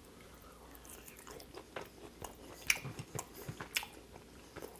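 A person chewing a bite of overcooked, cooked-through steak dipped in ketchup: soft, irregular wet mouth clicks, one sharper click a little past halfway.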